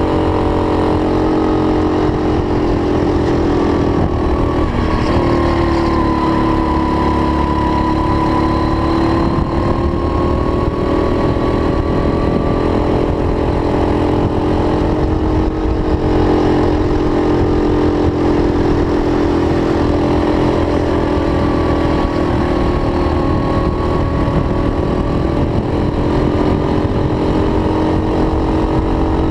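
Racing kart engine running at speed, its pitch falling and rising again several times as it slows for corners and accelerates out.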